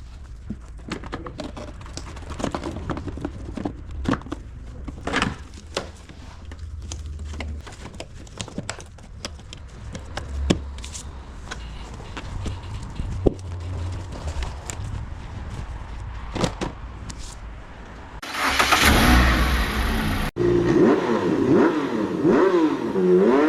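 Car engine running with scattered clicks and knocks over a low rumble. About eighteen seconds in a loud burst of about two seconds follows. After a sudden cut, the engine revs up and down.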